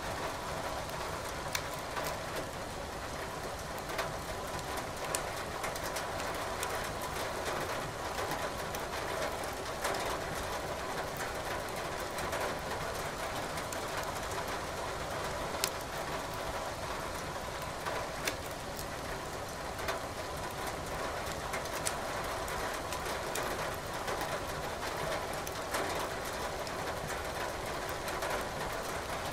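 Steady rain with a wood fire crackling in a fireplace, sharp pops of burning firewood every few seconds.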